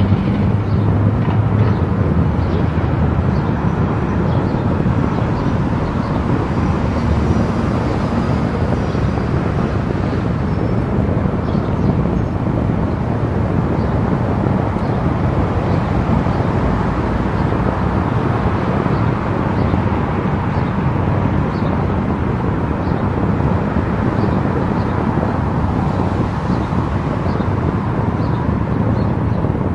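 A car driving at highway speed: steady tyre and road noise with a low engine hum, and faint light ticks here and there.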